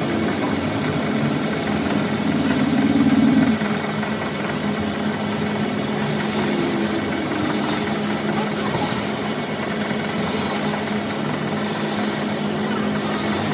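A machine or engine running steadily with a constant hum, and a hiss that swells and fades about every second and a half from about halfway through.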